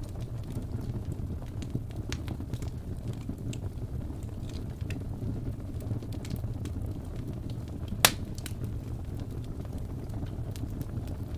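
Wood fire burning with a steady low rumble and scattered sharp crackles, and one loud pop about eight seconds in.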